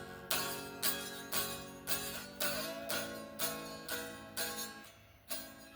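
Guitar strummed in a steady rhythm, about two chord strokes a second, each ringing out before the next: the instrumental intro to a song, before the singing comes in.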